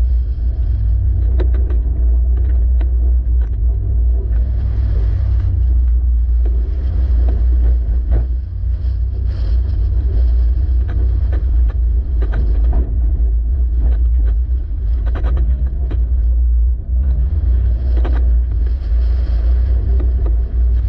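Toyota 86's flat-four engine and car on a rallycross run: a heavy low rumble with frequent sharp knocks and clatter. There is a brief rise in engine pitch about fifteen seconds in.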